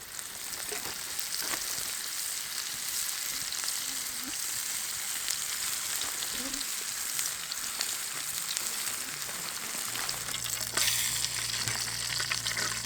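Pike fillets sizzling and crackling in a frying pan. A low steady hum joins about ten seconds in.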